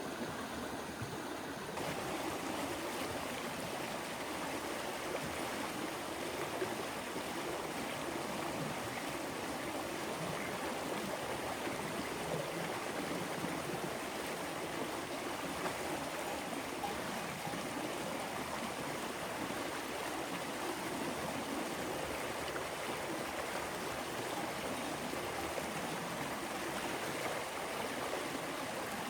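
River water flowing steadily over rocks: an even, unbroken rushing of a stream.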